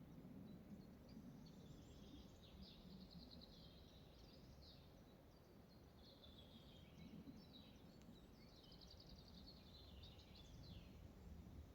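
Faint forest birdsong: a songbird repeating short high phrases with rapid trills, over a low steady rumble.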